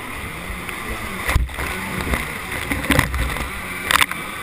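Jet ski engine running while under way, its pitch rising and falling with the throttle, with three sudden sharp slaps of water over the top.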